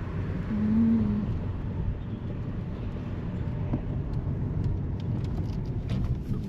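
Steady low rumble of a car driving slowly, heard from inside the cabin. There is a brief low tone about a second in and a few faint clicks near the end.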